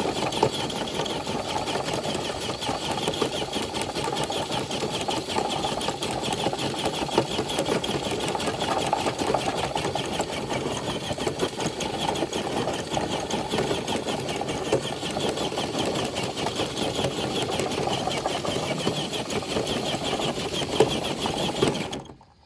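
Traxxas TRX4 High Trail RC truck's electric motor and geared drivetrain whining steadily under heavy load as it drags a brick-loaded dead sled. It stops abruptly near the end.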